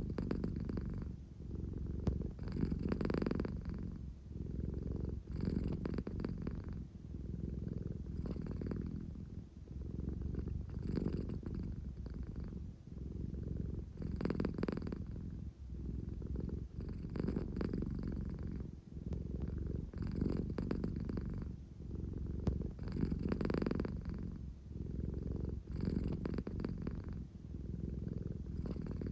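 American Shorthair cat purring steadily, the purr swelling and easing with each breath about every three seconds.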